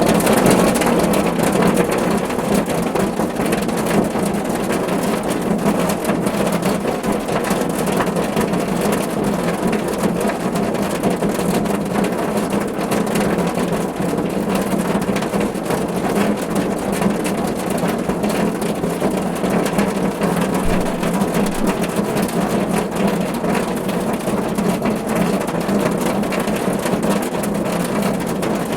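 Steady rain drumming on a car's roof and body, a dense even patter with a deep rumbling undertone.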